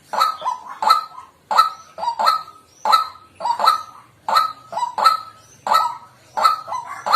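White-breasted waterhen calling: loud, harsh repeated 'kwak' notes in a steady run, a little over two a second.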